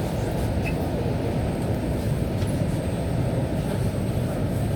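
Suburban electric train running, a steady low rumble heard from inside the carriage.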